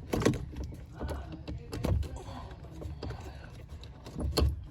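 Knocks and clunks of hands working a new rubber insert onto a car's brake pedal. There are three heavier thuds, about a second in, near the middle and near the end, with lighter clicks and handling noise between them.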